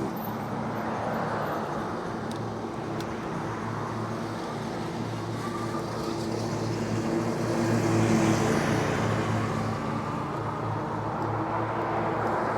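Road traffic with vehicle engines humming steadily; one passes close and gets loudest about eight seconds in.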